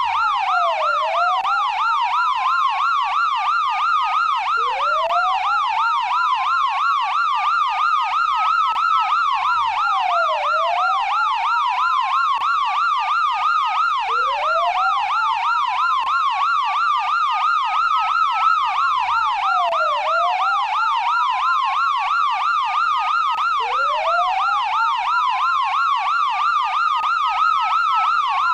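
Electronic police siren sounding without a break: a fast yelp warbling up and down several times a second, over a slower wail that climbs for a few seconds and then drops. The pattern repeats about every nine to ten seconds.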